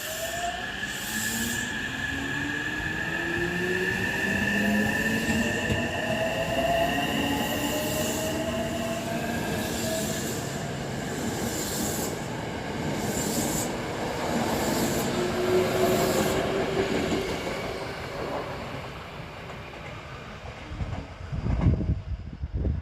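Hankyu 9000 series electric train pulling away from a station: its traction motors give a whine of several tones rising in pitch as it accelerates, over steady wheel and rail noise. The sound eases as the train draws away, with a few low thumps near the end.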